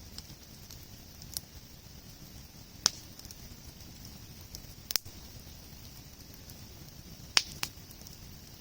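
Wood campfire burning, with a low steady rush under about five sharp, separate pops and cracks from the burning wood, spaced a second or two apart.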